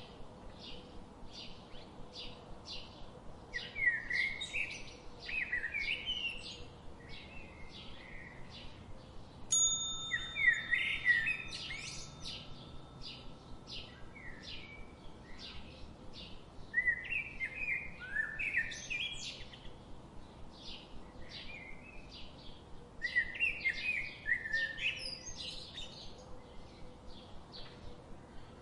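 Songbirds chirping, with short chirps repeating about three times a second and louder warbled song phrases several times over. A single chime-like ringing tone sounds about ten seconds in and dies away over a couple of seconds.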